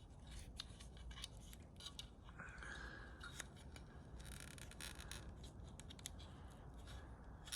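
Faint crinkling, clicking and rubbing of electrical tape being pressed by hand around the plastic retaining tabs of a Corvette center wheel cap, with a short scratchy rub a little past four seconds.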